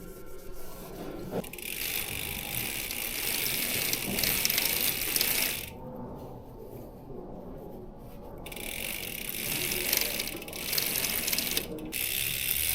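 Bicycle drivetrain being turned, the rear freewheel's pawls ratcheting as the chain runs. It goes in two stretches with a pause of a couple of seconds in the middle.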